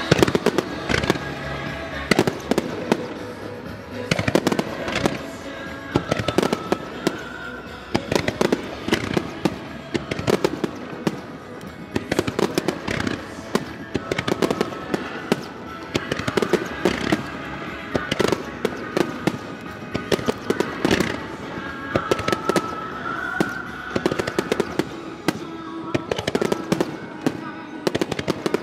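A rapid barrage of aerial firework shells (a starmine), with many bursts and cracks each second, over music playing along with the show. The sound cuts off suddenly right at the end.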